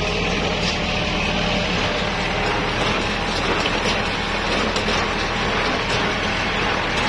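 Kubota L5018SP tractor's diesel engine running steadily.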